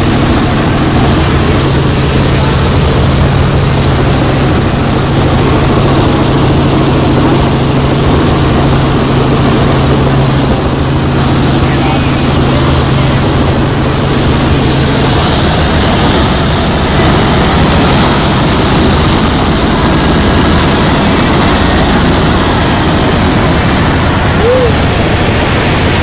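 Helicopter in flight: steady, loud engine and rotor noise. A low steady hum within it drops out about fifteen seconds in.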